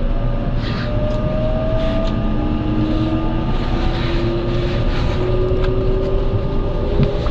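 An electric limited express train running, heard from inside the carriage: a steady rumble of wheels on rails, with the traction motors' whine rising slowly in pitch as the train gathers speed.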